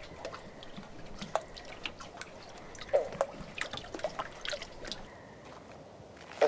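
Water dripping: scattered drops landing irregularly, with louder plinks about three seconds in and near the end.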